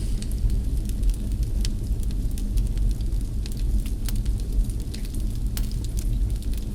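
Wood fire burning in a fireplace, crackling. Irregular sharp pops sound over a steady low rumble of the flames.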